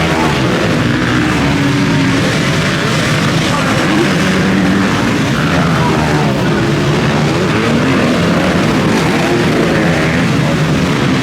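Several motocross bikes racing, their engines revving up and down as they accelerate and shift.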